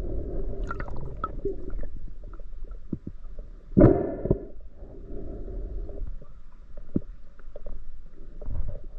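Muffled underwater sound picked up through a camera's waterproof housing: a low rumble with scattered clicks and knocks, and a louder gurgling rush about four seconds in.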